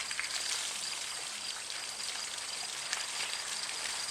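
Water spraying steadily from a garden hose and splattering off a person and the ground.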